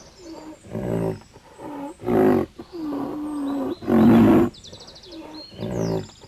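Domestic sheep bleating, about six calls of varying length, several loud and quavering and one held on a steady pitch near the middle, with faint birdsong behind.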